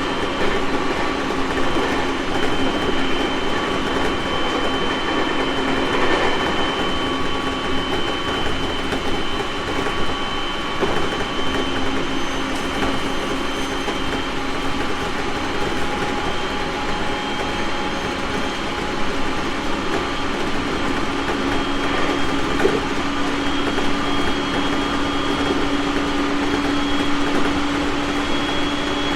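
JR 701 series 1000-subseries electric multiple unit running on the Tohoku Main Line: steady rolling rumble of the wheels on the track, with a motor whine of several held tones that creeps slowly up in pitch over the second half.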